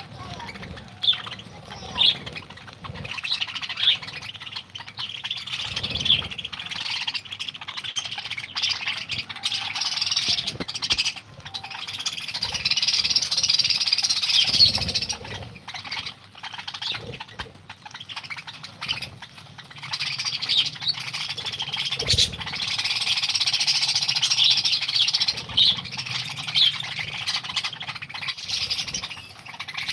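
A colony of pet cockatiels and lovebirds chattering, with many overlapping high chirps and squawks that swell louder around the middle and again later. A single sharp knock sounds a little past two-thirds of the way through.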